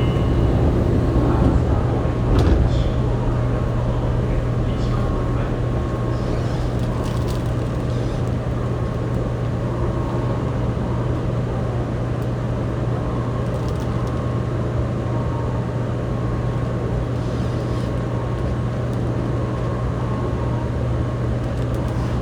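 Steady hum inside a Fukuoka City Subway 2000 series car standing at a platform with its doors open: the car's air conditioning running, with a few knocks and a louder stretch in the first three seconds.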